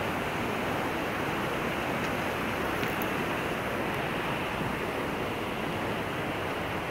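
Rushing water, a steady even wash of noise without swells or distinct splashes.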